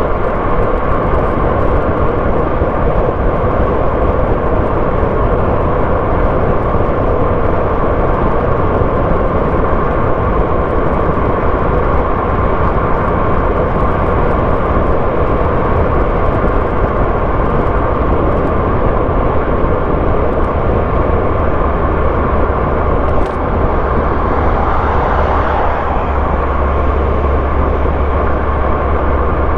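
Car driving along a road: steady engine and tyre noise, with the low rumble growing heavier over the last several seconds and a single brief click about 23 seconds in.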